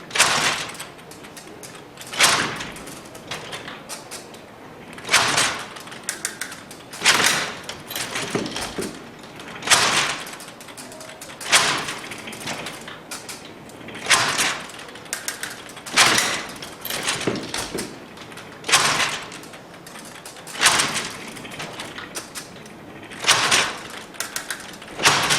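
Babbage Difference Engine running, its metal columns and carry mechanism clattering through each calculation cycle. There is a loud clack about every two to two and a half seconds, with lighter rattling in between.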